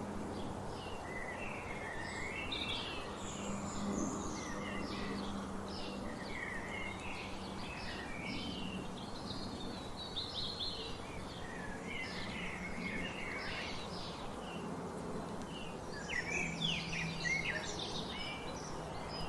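Several wild birds singing and chirping, many short, quick notes and trills overlapping, over a steady background hiss.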